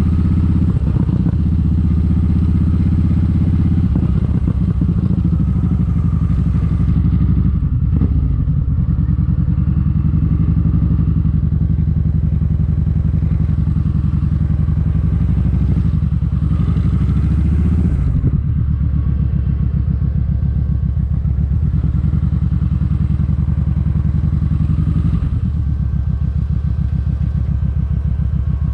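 Kawasaki Vulcan 1700 Vaquero's V-twin engine running steadily at low revs, with small changes in engine note a few times.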